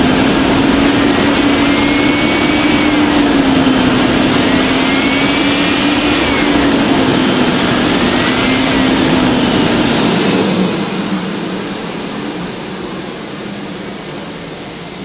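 2000 Chevrolet Silverado 1500's 5.3-litre V8 running, revved up and back down three times, then settling to idle about ten seconds in, growing quieter toward the end.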